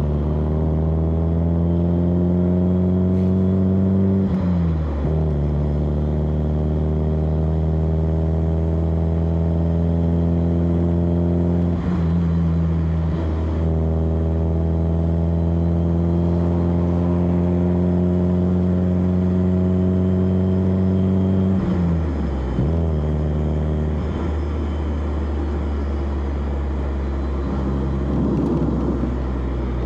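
Exhaust of a 1991 BMW E30 316i's 1.6-litre four-cylinder engine pulling through the gears. The engine note climbs steadily, dips at three gear changes (about four, twelve and twenty-two seconds in), then settles into a steadier cruise near the end.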